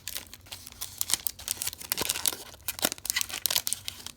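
A trading card pack's wrapper being torn open and crinkled by hand, in many quick irregular crackles; the pack is tough to open.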